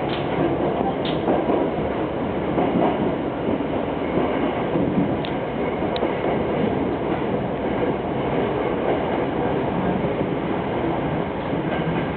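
Subway train running through a tunnel, heard from inside the front car: a steady rumble of wheels on rail with a few brief high squeaks.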